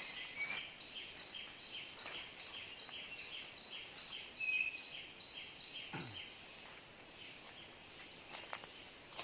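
Forest ambience of bird calls: a high chirp repeating about twice a second, with a few short whistled notes in the middle. A low falling sound comes about six seconds in.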